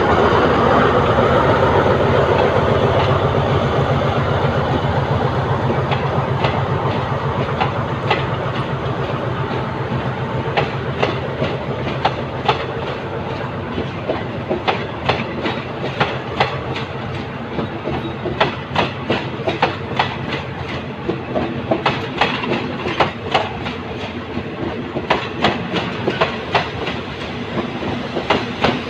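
Alsthom diesel-electric locomotive pulling away, its engine hum loudest at first and fading over the first few seconds. Then the train's coach wheels clack over the rail joints, the clacks coming in pairs and groups and growing more frequent as the train gathers speed.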